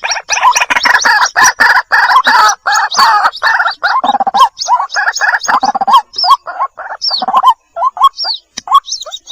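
White-breasted waterhen (ruak-ruak) young calling for the parent: a dense run of quick repeated calls with higher chirps over them, thinning to scattered single notes after about six seconds.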